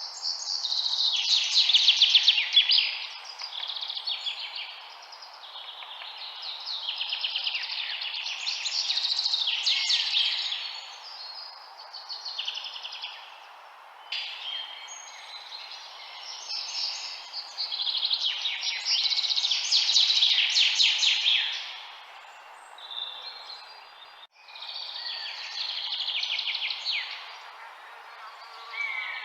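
Songbirds singing in repeated bouts of rapid, high trilled notes, each burst lasting two to three seconds, over a steady background hiss. There is a brief sudden dropout near the end.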